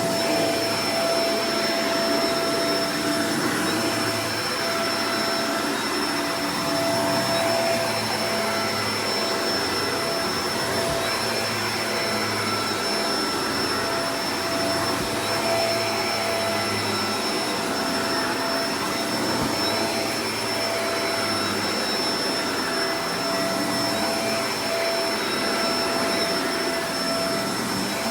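Shark Professional Powered Lift-Away DLX (NV586) upright vacuum cleaner running steadily, its motor giving a constant whine over a rushing airflow, with a low hum that wavers slightly.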